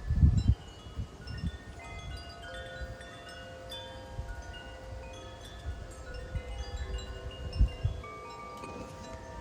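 Wind chimes ringing in gusty wind, many tubes sounding overlapping tones at different pitches that ring on. Wind gusts buffet the microphone with low rumbles, the loudest right at the start and another about seven and a half seconds in.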